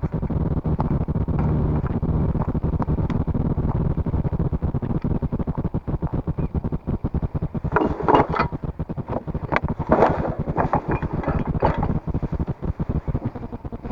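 Wind buffeting the microphone as a steady low rumble, with a run of short, louder noises about eight to twelve seconds in.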